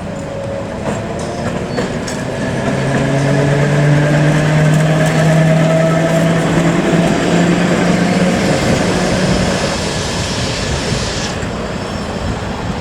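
Heritage electric tram going by on its rails: a traction motor hum that rises slightly in pitch as it draws near and grows louder, over the rumble of wheels on track, fading away near the end.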